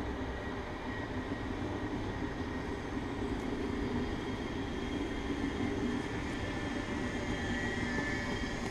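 Red regional passenger train rolling past on a far track: a steady rumble of wheels on rails with a thin, high whine running through it.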